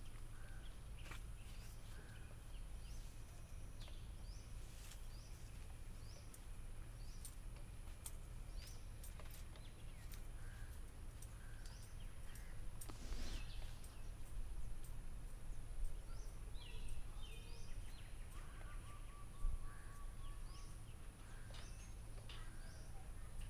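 Birds chirping in short, scattered calls, with a trill about three-quarters of the way in, over a steady low rumble and a faint steady high whine.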